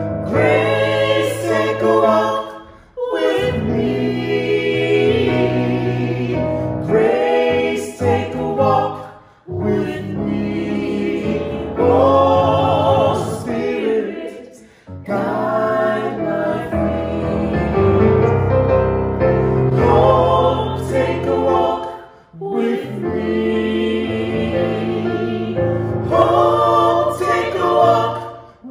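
A choir singing with instrumental accompaniment under it, in phrases separated by brief pauses.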